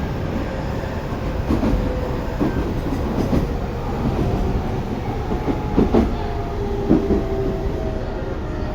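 Tobu 9050 series electric train running: a steady rumble with a few clicks of the wheels over rail joints. A thin motor whine sinks gradually in pitch in the second half.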